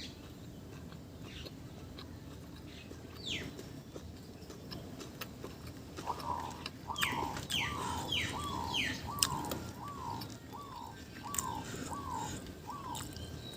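Bird calling: a run of about ten short, evenly repeated notes starting about halfway through, with a few higher falling whistles over the first few of them.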